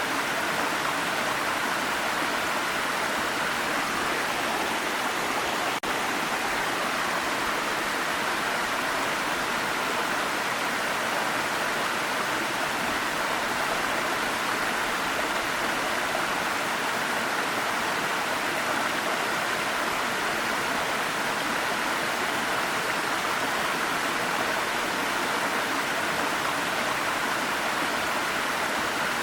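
Waterfall rushing, a steady even wash of falling water with no changes in level, broken only by a momentary dropout about six seconds in.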